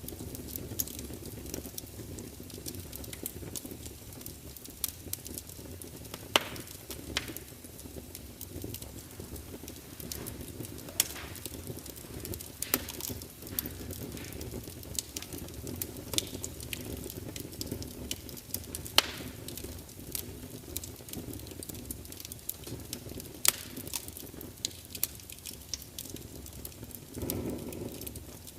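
Log fire in a large open fireplace crackling, with frequent small snaps and a few louder pops over a steady low rumble of flame. There is a short louder swell of the flames near the end.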